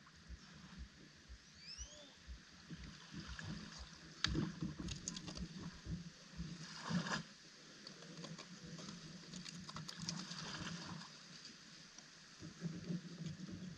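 Water lapping and gurgling with scattered small knocks and clicks, and a few louder thumps about four and seven seconds in.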